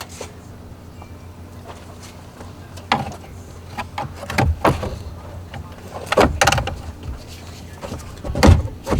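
Several knocks and clunks of tools and parts being handled in a car's engine bay, the loudest about six and eight and a half seconds in, over a steady low hum.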